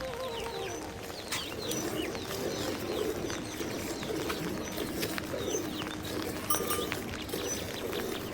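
Several birds calling: quick, high, falling chirps repeated throughout, over lower, wavering calls.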